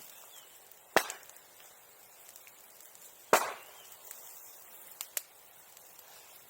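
Two loud sharp cracks about two seconds apart, each dying away quickly, then two faint clicks close together.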